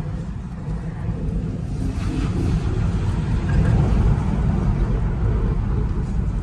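Steady low road and tyre rumble from a Tesla Model 3 being driven, with no engine note since the car is electric. The rumble grows a little louder about halfway through.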